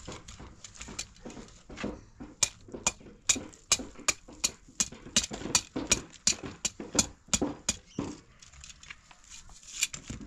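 A series of sharp rhythmic knocks or taps, about two to three a second, starting a couple of seconds in and stopping about two seconds before the end.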